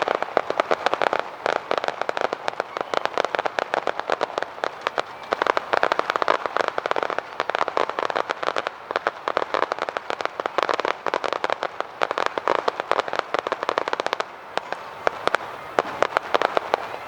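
Aerial fireworks crackling: a dense, rapid run of many sharp little pops and cracks, like crackling stars, thinning briefly about fourteen seconds in before picking up again.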